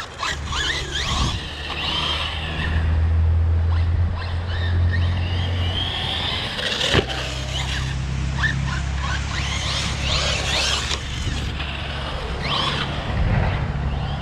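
Electric RC car being driven hard: its motor whine rises and falls in repeated throttle bursts, with a sharp knock about halfway through.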